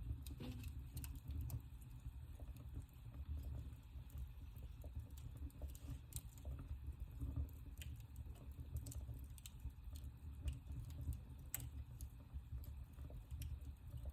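Wood fire in a fireplace crackling: scattered sharp pops and clicks over a steady low rumble of the flames.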